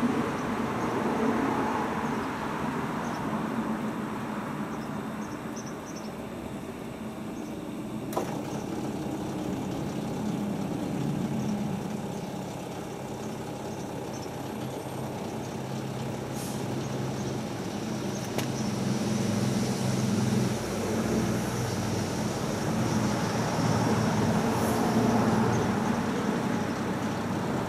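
Hotpoint Ultima WT960 washing machine running a wash programme: a steady motor hum with water swishing in the drum, and a single sharp click about eight seconds in.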